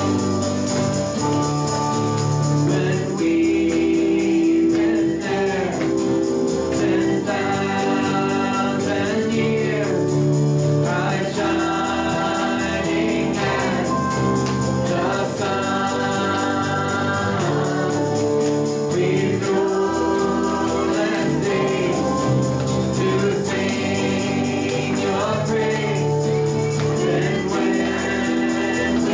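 A Christian song with voices singing phrase after phrase over steady instrumental accompaniment.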